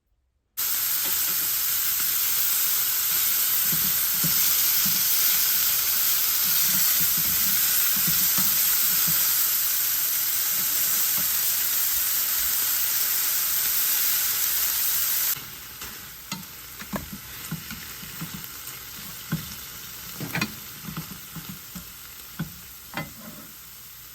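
Food frying and sizzling loudly in a pan while being stirred. About fifteen seconds in the sizzle drops suddenly to a quieter level, with scattered knocks of the utensil against the pan.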